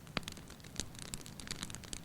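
Wood fire burning in a fireplace, crackling with many small irregular pops and one sharper pop just after the start.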